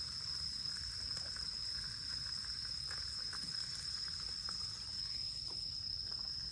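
Insects chirring in one steady, unbroken high-pitched trill, over a low background rumble and a few faint clicks.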